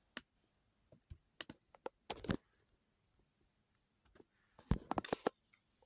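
A scattering of short, sharp clicks and taps: a few spaced out in the first couple of seconds, then a quick cluster of them near the end.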